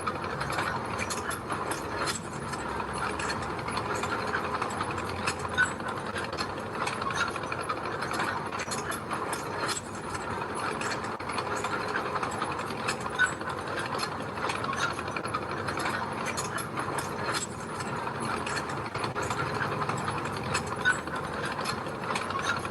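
Mini bulldozer at work: a steady, dense clatter of its steel crawler tracks and gravel over a low engine hum, with a few sharper clanks.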